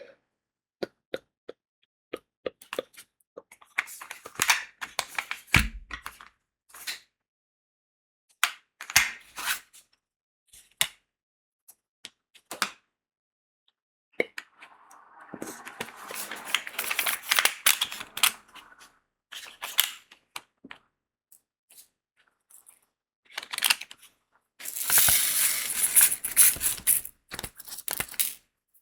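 Diamond-painting work: scattered small plastic clicks and taps of crystal beads and tools, with two longer stretches of dense rattling of loose crystal beads, about halfway through and again near the end.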